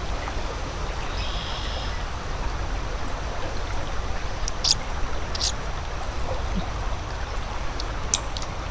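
Shallow creek water running steadily, with a few short sharp ticks about halfway through and again near the end.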